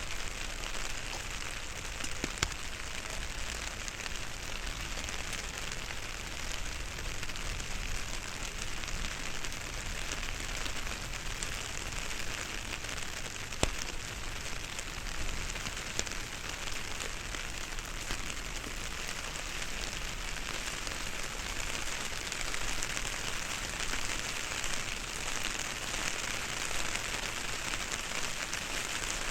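Steady rain falling on an umbrella, heard close up through binaural in-ear microphones, with a few sharp single drops striking now and then. It grows slightly louder in the last third.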